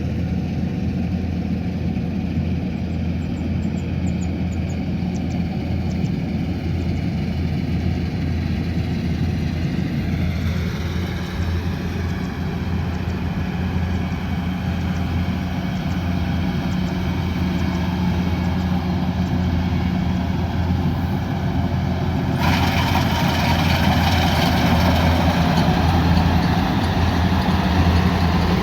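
Kubota combine harvester's diesel engine running steadily with a low, even hum. About two-thirds of the way through, a rushing noise starts suddenly on top of it and the whole sound gets a little louder.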